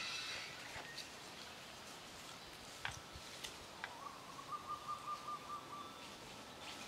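A bird calling in the forest: a quick run of repeated notes on one pitch, about six a second, lasting some two seconds from about four seconds in. A single sharp click comes shortly before it.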